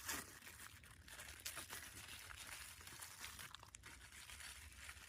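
Faint crinkling and tearing of a plastic salad-kit packet being handled and opened, small irregular crackles over a low steady rumble.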